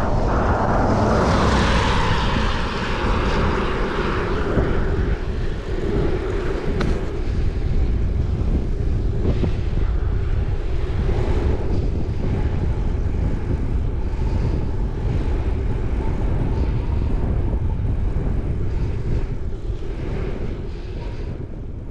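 Strong wind rushing over and buffeting the microphone, a continuous low rumble with a rushing hiss that is loudest in the first few seconds.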